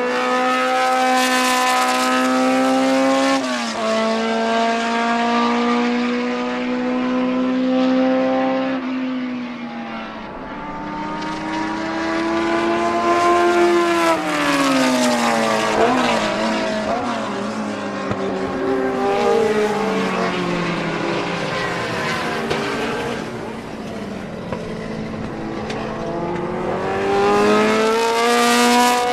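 BMW M12/7 2.0-litre inline-four Formula 2 racing engine running hard at high revs, with a sudden drop in pitch a few seconds in like an upshift. Its note then falls away, climbs and falls again through the middle, and climbs once more near the end.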